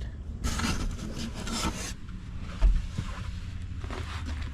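Rubbing and scraping of hands working at a Jeep Wrangler's dash trim for about a second and a half, then a single dull thump, over a low steady rumble.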